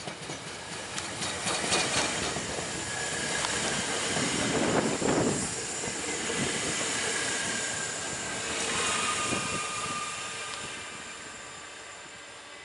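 ÖBB Cityjet (Siemens Desiro ML) electric multiple unit running into the station close by and braking. The rush of wheels on rail builds to a peak about five seconds in. Thin brake and wheel squeal tones sound through it, and the noise fades as the train slows toward its stop.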